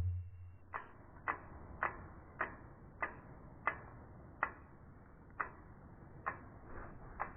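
A series of sharp single ticks, about one every half second to a second, slightly uneven in spacing, over a low steady hum.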